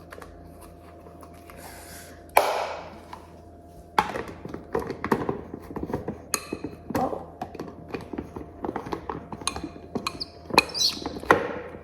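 Plastic shaker bottle of pre-workout drink being shaken hard, its contents clattering inside in quick knocks. A single knock comes before the shaking starts.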